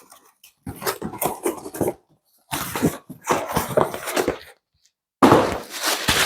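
Packaging rustling and crinkling as bed-frame parts are handled and unwrapped, in three bursts of a second or two each.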